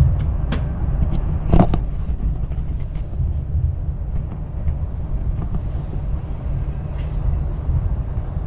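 Chinese CRH high-speed train heard from inside the carriage while running, a steady low rumble. A few short clicks or knocks come in the first two seconds, the loudest about a second and a half in.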